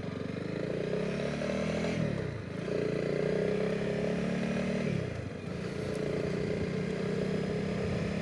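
Honda CRF300 Rally's single-cylinder engine pulling through the gears under the rider. Its pitch rises for about two seconds and drops at a gear change. It then holds steady, dips briefly about five seconds in, and runs steady again, with wind noise on the microphone.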